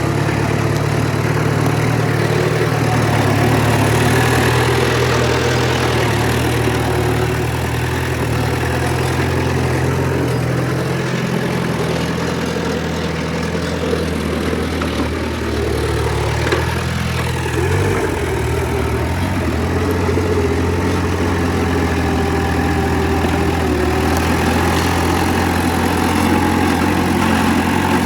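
Heavy diesel engine of earthmoving machinery running steadily, its pitch shifting briefly about two-thirds of the way through.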